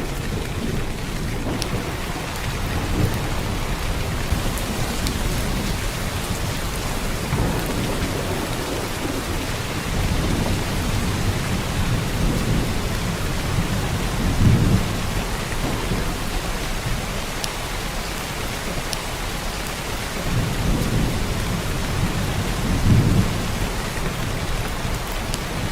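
Heavy downpour of rain falling steadily, with low rumbles swelling and fading underneath, loudest about halfway through and again near the end.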